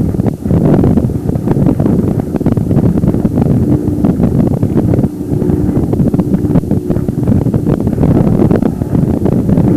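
Wind buffeting the microphone in gusty bursts, with a motorboat's engine droning steadily underneath.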